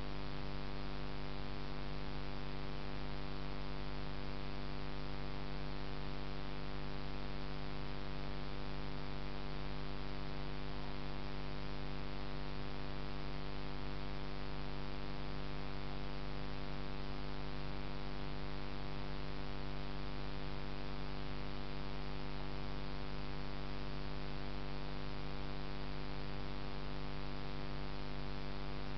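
Steady electrical hum, a buzzy stack of many tones over a constant hiss, unchanging throughout.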